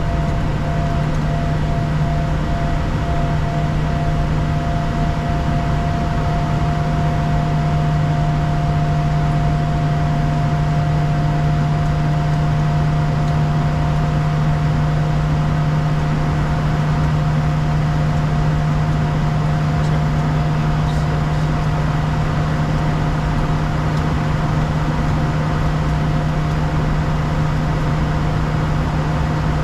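Steady drone inside a Bombardier Challenger 350 business jet in flight: the rear-mounted Honeywell HTF7350 turbofans and rushing airflow, with a strong low hum and a few faint steady tones above it.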